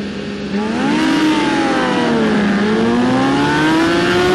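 BMW S1000RR superbike's inline-four engine running. About half a second in the revs rise sharply and it gets louder, then the pitch eases back down, then it climbs steadily as the bike accelerates.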